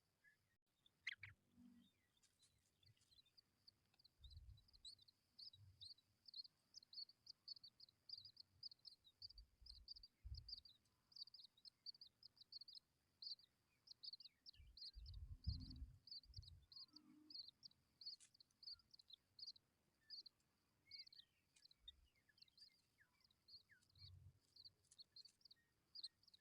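Tawny pipit nestlings giving faint, rapid high begging chirps, several a second, kept up without a break: the calls of hungry chicks. A few faint low thumps sound under them.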